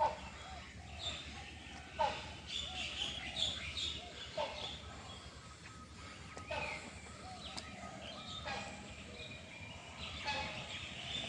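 A mixed flock of aviary birds calling and chirping. A lower, downward-sweeping call repeats about every two seconds, with many higher chirps in between.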